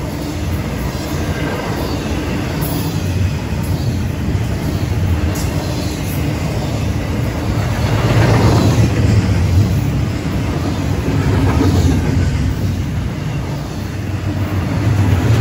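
Florida East Coast Railway intermodal freight train rolling past, its loaded container and trailer cars giving a steady rumble of steel wheels on rail with a few sharp clicks. The rumble swells about halfway through and again near the end.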